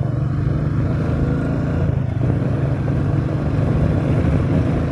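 Royal Enfield Meteor 350's single-cylinder engine running at a steady cruise, with wind and road noise.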